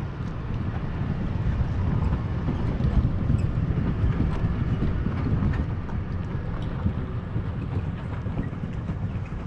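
Riding noise on a moving e-bike: a steady low rumble of wind on the action-camera microphone and tyres, with scattered light clicks and knocks.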